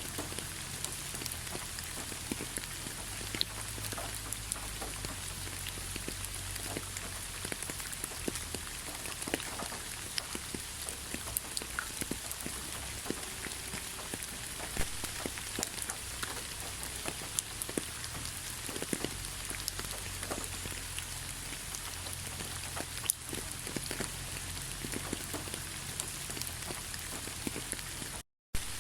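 Steady rainfall, an even hiss of rain with many individual drops ticking sharply. Near the end it cuts out to silence for a split second, then resumes.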